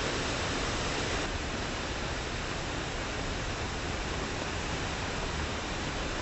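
Steady heavy rain falling, an even wash of noise with no breaks.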